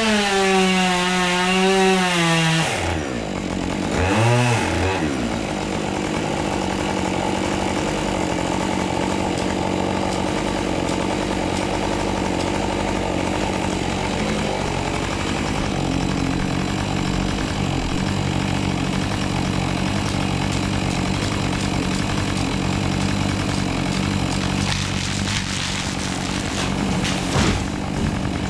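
Chainsaw at full throttle, dropping to idle about three seconds in, revved briefly once, then idling steadily. A short knock comes near the end.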